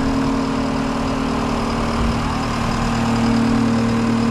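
Engine idling steadily, a constant hum.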